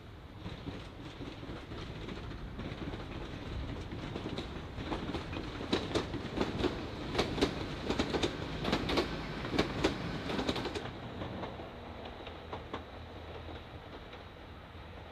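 Train wheels clattering over rail joints and pointwork as a train passes, with a low rumble. The clicks come thick and fast about halfway through, then the sound fades away.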